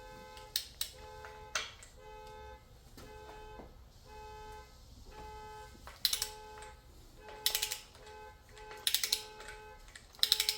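Ratchet wrench clicking in four short rapid bursts in the second half, over background music with a steady tune of held notes.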